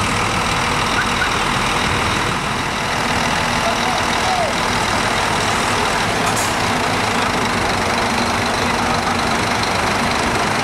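Diesel engines of Scania K410 double-decker coaches running steadily close by, an even rumble with no revving.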